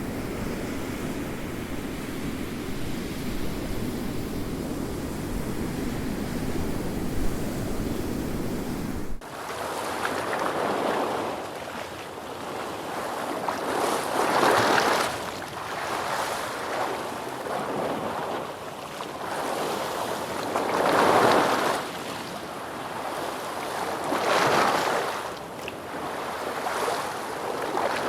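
Ocean waves. First comes a steady low rush of surf; about nine seconds in it changes abruptly to waves washing in and drawing back, swelling every few seconds.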